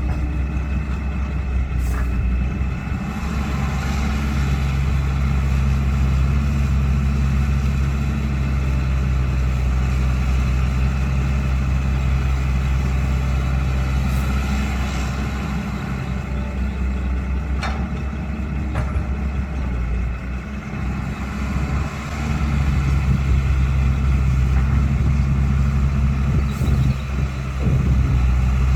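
Caterpillar 312 excavator's diesel engine running under changing load, easing off briefly about two-thirds of the way through and then picking up again, with a few sharp metallic clanks.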